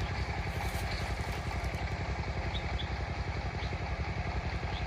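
An engine idling steadily with an even, rapid low pulse, joined by a few faint short high chirps.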